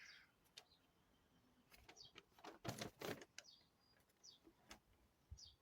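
Near silence broken by the soft crackle and rustle of a paper instruction leaflet being handled and its pages turned, loudest about three seconds in. Faint, short high chirps come and go.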